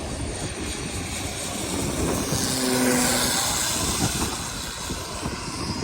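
Propeller airplane passing low overhead, growing louder to a peak about three seconds in and then easing off.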